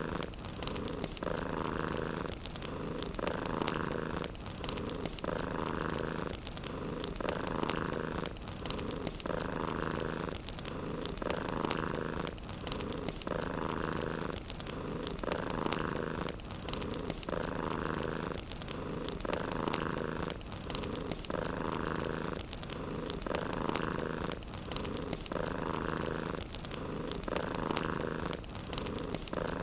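Domestic cat purring steadily, its purr changing tone with each in-breath and out-breath, about once every second and a half. Light crackling of a fireplace fire runs underneath.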